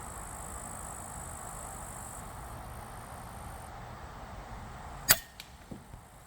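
Steady wind noise on the microphone, then a single sharp shot from a 5.5 mm VL-100 Sheriff air rifle about five seconds in.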